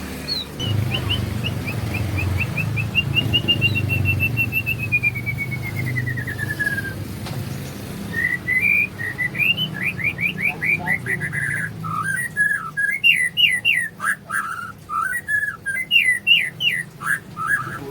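A songbird singing: a fast run of short whistled notes that slides slowly down in pitch, then after a brief pause, quick chattering phrases of sweeping notes. A low hum sits underneath for the first several seconds.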